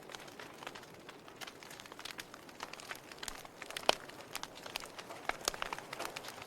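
Logs burning in a fireplace, crackling with irregular sharp pops and snaps over a soft hiss, with one louder pop about four seconds in.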